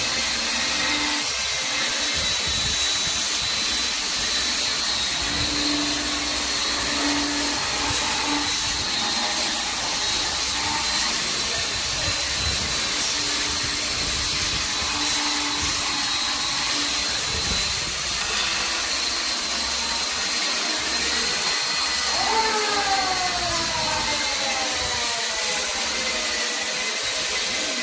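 A machine motor running steadily with a loud whirring hiss, like a power tool. Near the end its pitch slides up and down.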